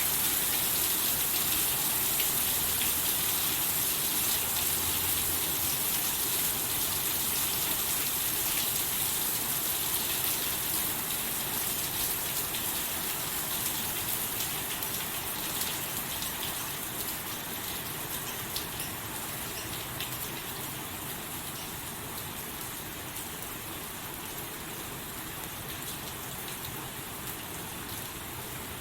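Steady rain: a dense hiss of falling drops with scattered faint drop ticks, growing gradually quieter through the second half.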